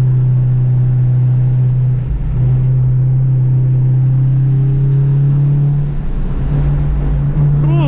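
Honda Civic's engine running hard at speed, heard from inside the car. The note dips briefly about two seconds in, then rises slowly as the car accelerates, with a small step up near the end.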